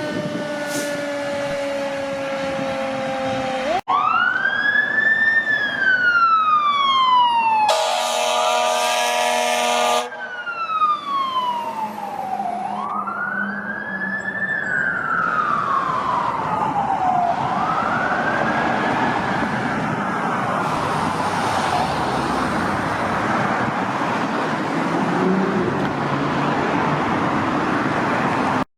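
Emergency vehicle siren wailing in slow rising-and-falling sweeps, with a blast of an air horn lasting about two seconds some eight seconds in. It opens with a pitched tone sliding down before cutting off suddenly.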